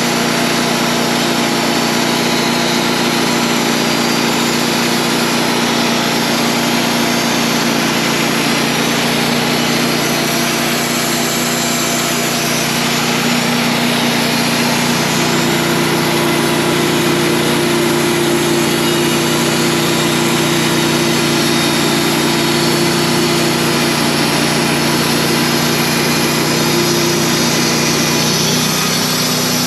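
Wood-Mizer portable sawmill's engine running steadily, its pitch stepping up about halfway through.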